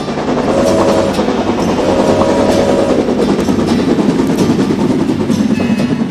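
Rail King toy train running on its plastic track, its motor and wheels making a steady clattering rumble, with two short tones in the first three seconds.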